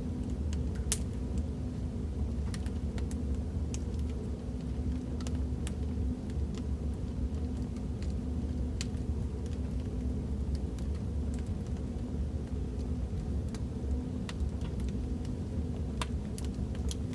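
Fireplace fire crackling: a steady low rumble of burning with irregular sharp crackles and pops scattered through it.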